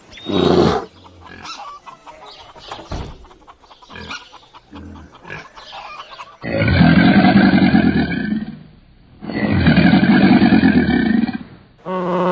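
Animal calls: a short loud call at the start, softer mixed animal noises, then two long, loud calls of about two seconds each, a little more than half a second apart.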